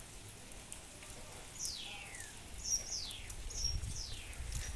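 A bird calls with a series of about four high whistled notes, each falling steeply in pitch, the first one long. Rain patters steadily underneath.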